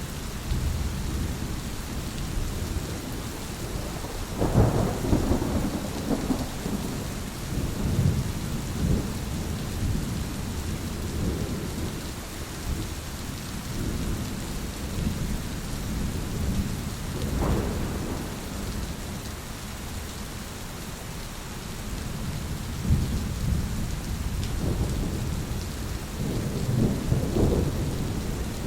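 Steady rain falling, with rolling thunder rumbling through it: a strong peal about four seconds in, a shorter crack-like rumble past the middle, and another rumble building near the end.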